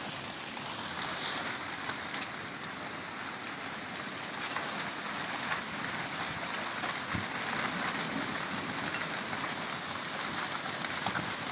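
Rain falling steadily in a thunderstorm, an even hiss, with a brief sharp drop-like tick about a second in.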